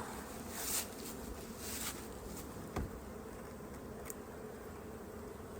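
Honeybees buzzing steadily around an open hive, with a few light knocks from the hive equipment being handled.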